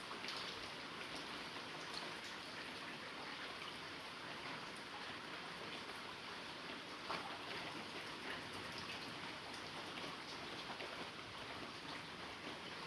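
Steady heavy rain with individual drops pattering on a surface, an even hiss with scattered drop ticks.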